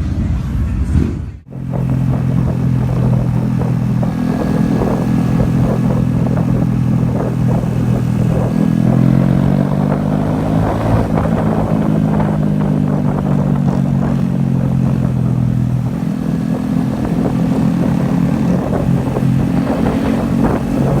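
Honda Grom's small single-cylinder motorcycle engine running at a steady riding speed, its pitch drifting up and down through the middle as the speed changes. There is a brief break in the sound about a second and a half in.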